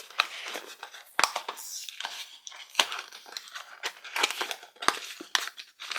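Packaging crinkling as a small toy box is opened by hand, with irregular crackles and sharp clicks.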